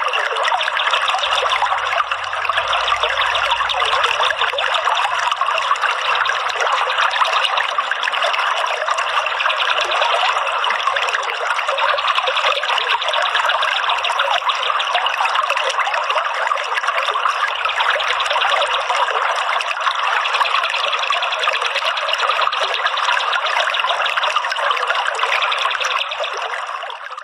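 Steady trickling, flowing water, a dense even rush, fading out near the end.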